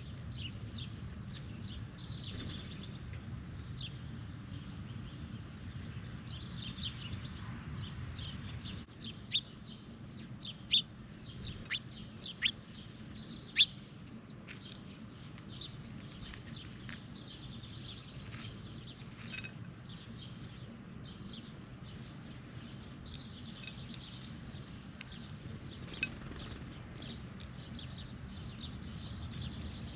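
Wild birds giving short, sharp chirps and calls, scattered throughout, with a cluster of louder ones between about 9 and 14 seconds in, over a low steady background rumble.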